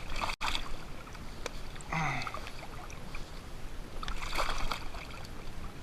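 Water sloshing against a kayak, with a few short bursts of splashing and handling noise as a small fish is unhooked at the side of the boat.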